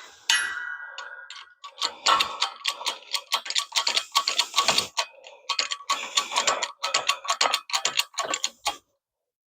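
Metal tool work on the U-joint: a ringing metal strike just after the start, then rapid, uneven metallic clicking at several clicks a second for about seven seconds before it stops.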